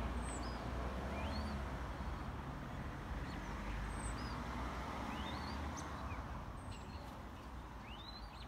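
Birds chirping: short rising calls scattered at irregular moments, over a low background rumble that slowly fades away.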